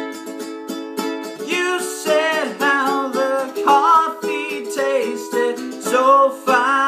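Ukulele strummed in a small room, with a voice carrying a bending melody over it for much of the stretch.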